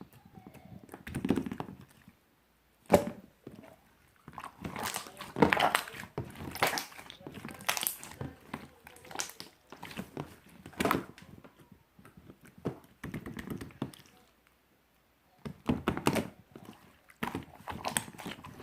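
Clear, bouncy slime being squished and pressed in the hands, giving irregular wet clicks, pops and squelches, with two short pauses, about two seconds in and near the end.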